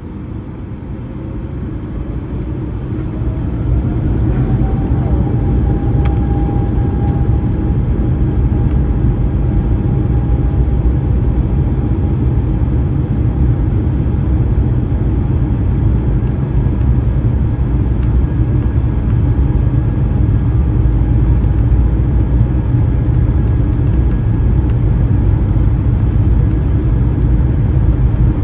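Airbus A220-300's Pratt & Whitney PW1500G geared turbofans heard from inside the cabin, spooling up to takeoff thrust. A whine rises over the first four seconds and then holds steady over a heavy, steady rumble from the takeoff roll.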